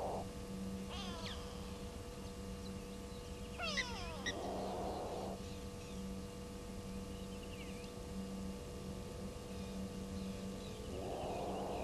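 An unidentified animal giving a short hoarse call about a second long, repeated every five or six seconds. Small birds chirp high in between.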